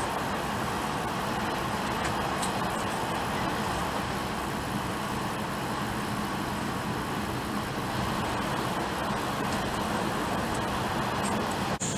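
Shinkansen bullet train running at high speed on an elevated viaduct, heard from inside the passenger cabin: a steady rushing rumble of wheels, rails and wind. It drops out briefly near the end.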